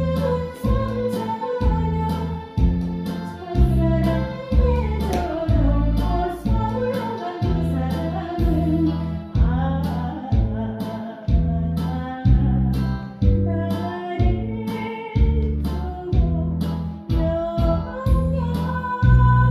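Korean trot song sung by a solo voice over backing music with a steady, regular bass beat.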